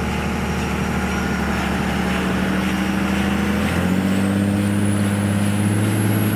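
Truck engine running while driving, a steady low hum whose pitch steps up about four seconds in, with a faint high whine rising over it; the sound cuts off abruptly near the end.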